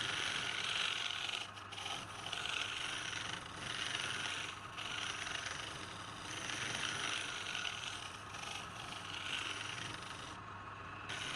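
Wood on a running lathe being worked with a tool, a scraping hiss that swells and fades in repeated passes over the lathe motor's steady hum.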